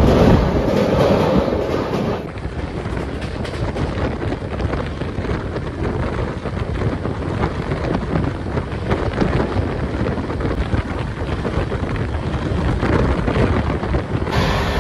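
Pathankot Express coach running at speed, heard at an open door: a steady rumble of wheels on rail with wind buffeting the microphone. The first couple of seconds, crossing a steel truss bridge, are louder.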